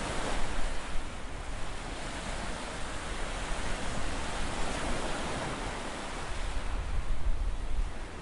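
Ocean surf washing steadily, with wind gusting against the microphone in low rumbles, strongest near the end.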